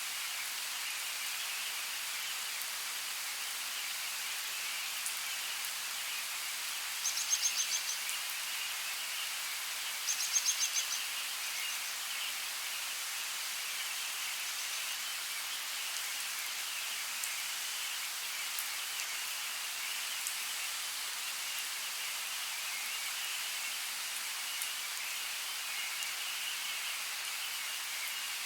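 Steady rain hissing on forest foliage. Twice, about seven and ten seconds in, a bird gives a short, rapid trill over it.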